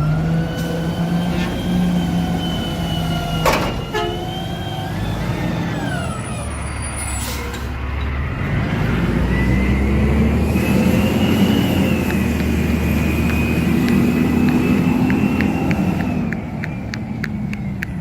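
Garbage truck engine running and revving, its pitch rising and falling over several seconds, with a sharp knock about three and a half seconds in and a quick run of ticks near the end.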